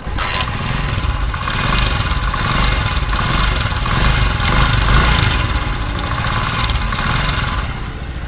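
Honda CG125 single-cylinder four-stroke engine running with a loud, bad-sounding mechanical clatter, which the mechanic puts down to a slack timing chain whose tensioner spring is too soft. It starts abruptly and eases near the end.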